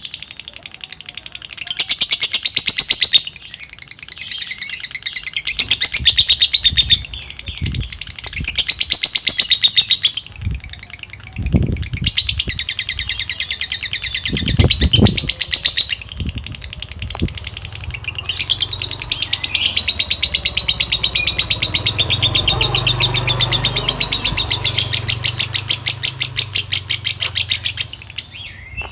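Lovebird singing its long, very rapid chattering trill (ngekek) in bouts of a few seconds with short breaks, the continuous 'kereta uap' (steam train) style that Indonesian keepers prize. A few low thumps come about halfway through.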